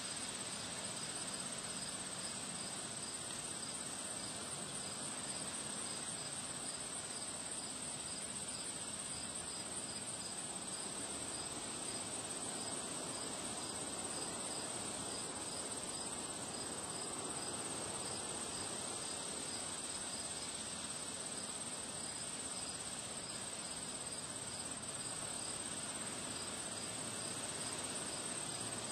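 Crickets chirping: a steady high trill, with regular chirps about two a second, over a constant rushing of wind.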